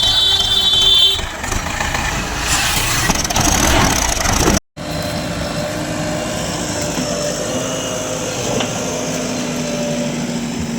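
Heavy diesel machinery running: the engines of a backhoe loader and tractors working mud. The sound cuts out completely for a moment about four and a half seconds in, then a steady engine hum resumes.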